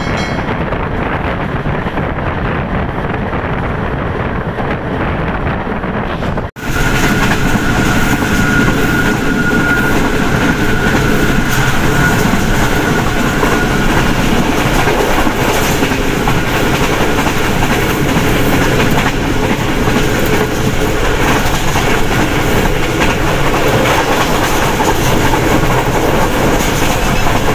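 Passenger train coach running at speed on the rails, heard from its open window: a steady rumble with the clatter of the wheels. About six and a half seconds in, the sound drops out for an instant and comes back brighter and louder, with a thin, steady, high squeal for several seconds.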